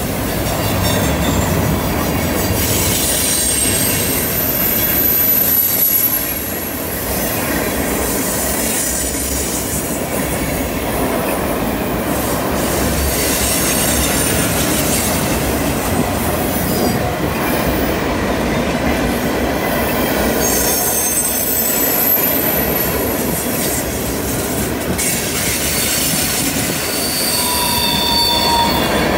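Freight cars of a long train, mostly tank cars, rolling past on a curve: a steady rumble of wheels on rail. High-pitched wheel squeal from the flanges grinding on the curve comes and goes, around five seconds in and again around twenty-two seconds, with lower squeals near the end.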